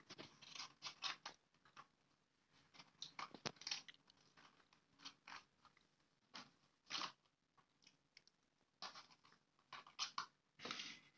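Crunchy chewing and biting of food in short, irregular bursts with quiet pauses between, mixed with the crackle of a paper food wrapper being handled.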